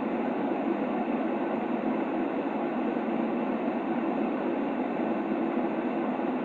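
Steady white noise for sleep, an even rush weighted to the middle range with no deep bass, unchanging throughout.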